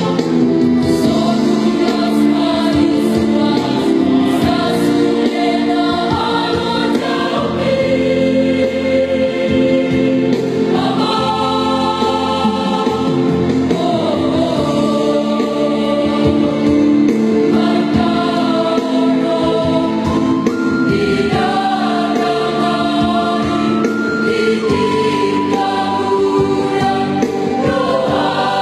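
A choir singing a Christian song in sustained multi-part harmony.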